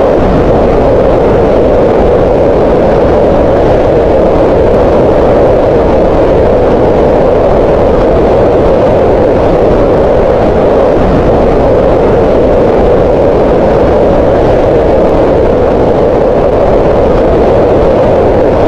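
Green noise: steady, unbroken synthetic noise with its energy centred in the middiles around 500 Hz, softer in the highs and lows.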